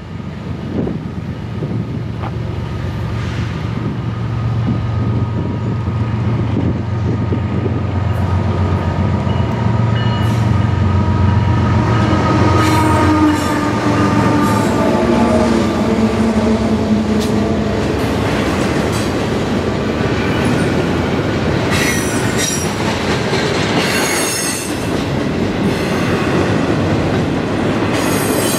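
Florida East Coast Railway freight train passing: diesel locomotives with a low engine hum for the first dozen seconds, then freight cars rolling by with steel wheels squealing and clicking over the rail joints.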